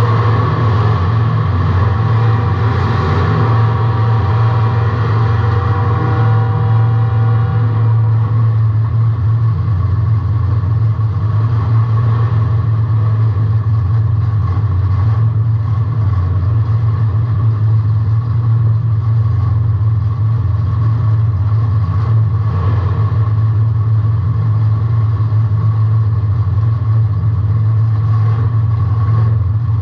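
Car engine running, heard from inside the cabin as a loud, steady low drone.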